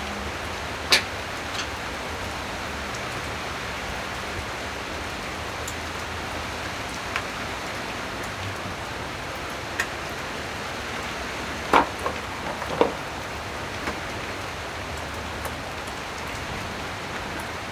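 A steady hiss with a few sharp clicks and knocks scattered through it, from hands and tools working at the outboard motor's throttle cable fitting. The loudest clicks come about a second in and twice close together about two-thirds of the way through.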